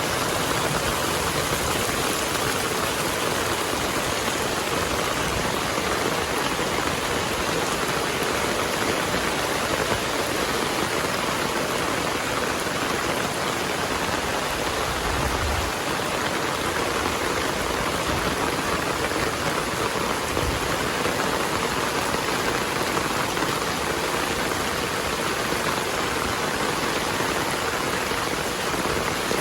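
Heavy rain falling steadily as a dense, even hiss, with two brief low rumbles around the middle.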